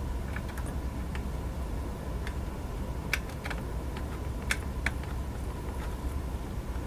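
Scattered small clicks and taps, a few sharper than the rest, from tools and small parts handled at a workbench while wires are soldered into a small radio. They sound over a low, steady hum.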